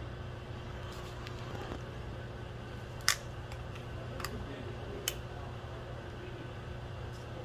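Microwave oven running with a steady low hum while leftover chili warms, with a few sharp clicks of dish or door, the loudest about three seconds in.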